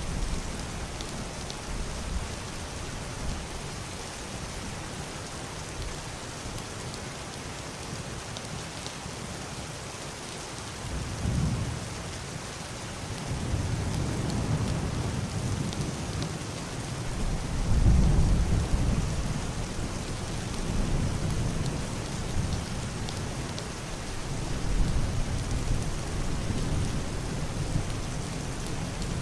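Heavy rain falling steadily on a wooden roof and glass window, with deep, muffled thunder rolling in about a third of the way through and rumbling on in several swells, loudest a little past the middle.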